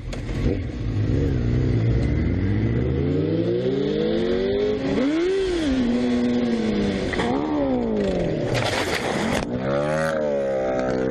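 A vehicle engine speeding up over several seconds, then rising and falling in pitch a few more times as it revs and eases off. A short loud hiss-like burst comes about nine seconds in.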